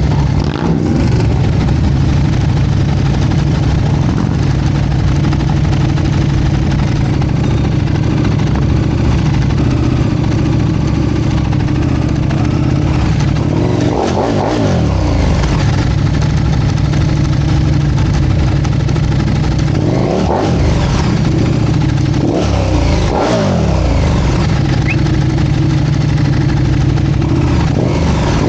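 Motorcycle engine idling, revved up and back down about four times, each rev a quick rise and fall in pitch.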